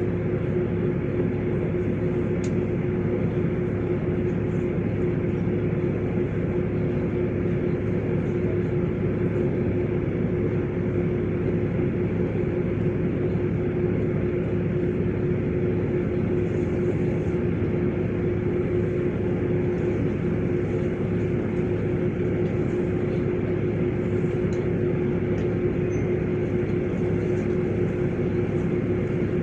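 LiAZ 5292.65 city bus heard from inside while driving: a steady drone of engine and road noise with a constant tone running through it.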